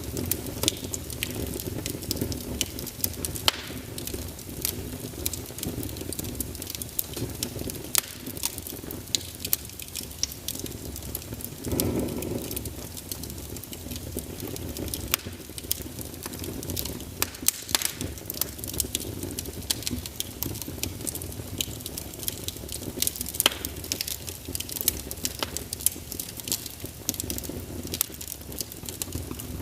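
Wood fire burning in a fireplace, with a low steady roar and frequent sharp crackles and pops. About twelve seconds in, the roar swells briefly.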